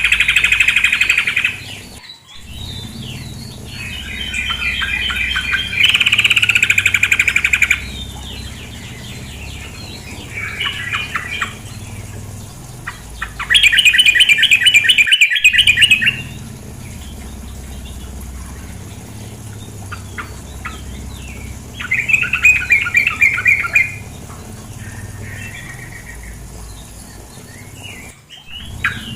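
Female yellow-vented bulbul (trucukan) giving bursts of rapid chattering calls, each a second or two long, repeated several times. A steady background of running water lies under the calls.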